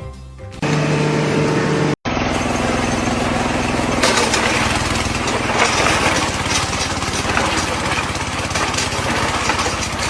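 Loud machinery running with a fast, even rattle. It cuts off abruptly about two seconds in, then starts again.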